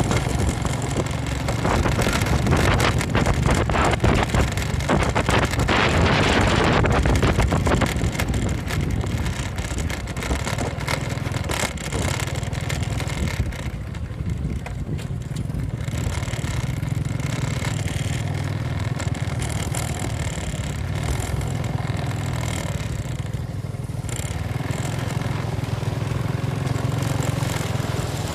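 Motorcycle engine running steadily while riding at low speed, with a louder rushing noise across the sound for several seconds near the start.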